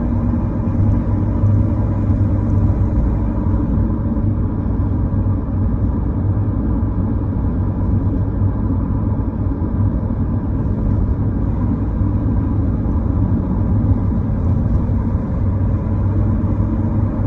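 Steady deep rumble of a car driving along a road, engine and tyre noise with a faint constant hum and no change in pace.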